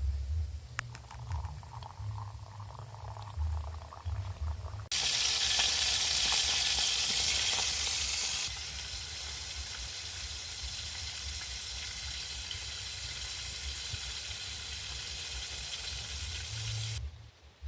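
Food frying in a pan: a steady sizzling hiss that starts abruptly about five seconds in, is loudest for the first few seconds, then settles lower and stops suddenly near the end.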